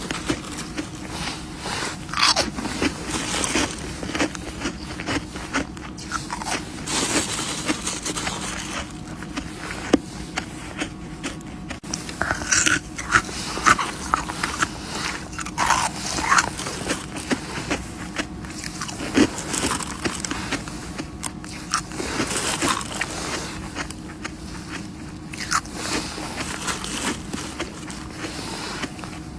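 Freezer frost being bitten and chewed close to the microphone: irregular squeaky crunches.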